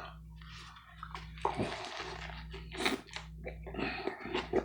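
Close-miked biting and chewing of a Subway Veggie Delight sub, with irregular wet crunches of bread and fresh vegetables, over a faint steady low hum.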